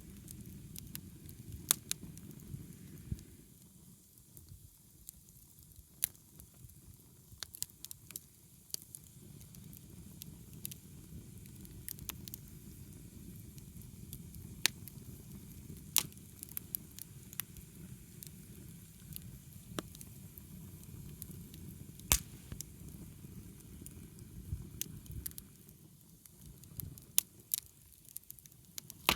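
Wood fire burning: sharp, irregular pops and cracks from the burning firewood over a low, steady rustle of flames that thins out and returns.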